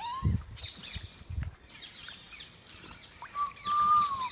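Parrot whistles: a short rising whistle at the start, then a clear, steady whistle held for about a second near the end that dips at its close, with scattered high chirps in between.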